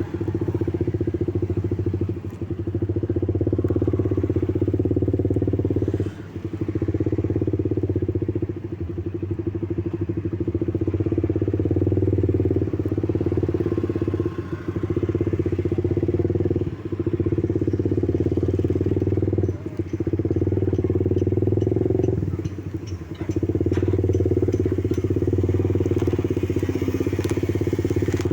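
A vehicle engine running steadily at a constant pitch, dropping away briefly several times.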